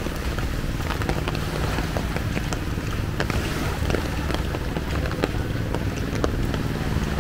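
Rain falling, with many separate drops ticking sharply close to the microphone over a steady low rumble.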